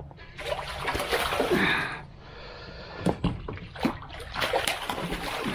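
Water splashing and sloshing as a hooked fish thrashes at the surface beside the kayak while being landed, with a couple of sharp knocks about three seconds in.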